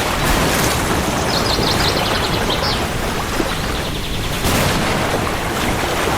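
Steady heavy rain with a low rolling rumble of thunder underneath. A brief high chirping trill comes through about a second in.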